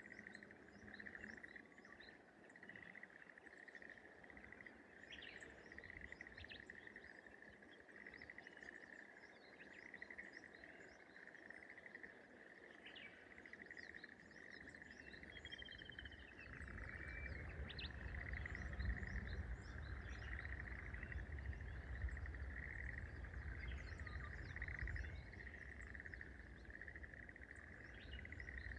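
Rice-paddy morning ambience: a steady, rapid trilling chorus of small paddy creatures at one high pitch, with scattered short bird chirps over it. About halfway through, a low rumble joins.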